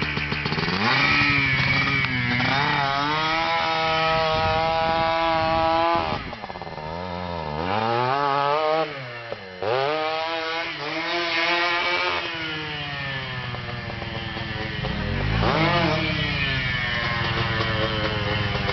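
Small motorcycle or ATV engine revving hard and easing off repeatedly, its pitch climbing and holding high, then dropping, with a sharp dip about six seconds in and another climb about fifteen seconds in.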